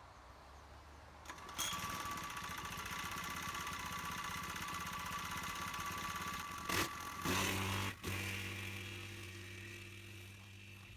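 Small petrol engine of a Kioritz Spider Mower AZ851 slope mower starting about a second in and running steadily. A couple of sharp clicks come about seven seconds in, after which a deeper, steadier hum takes over.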